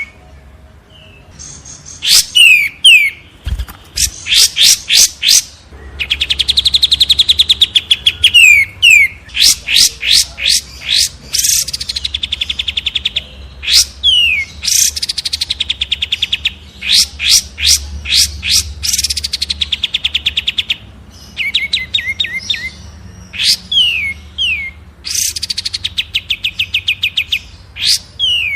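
Captive songbirds singing loud, clear phrases with short pauses between them. The song mixes rapid high trills, quick downward-sliding whistles and a long buzzy trill, the kind of song used as masteran to teach other cage birds.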